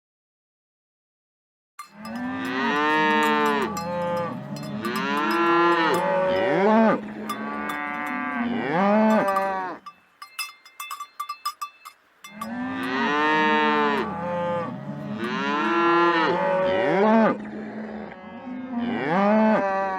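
Several cows mooing, long overlapping calls that rise and fall in pitch, in two long runs with a short pause between them that holds faint clicking.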